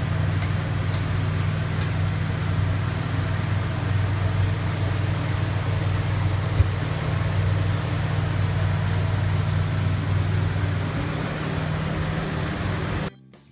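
Steady low mechanical hum that cuts off suddenly near the end.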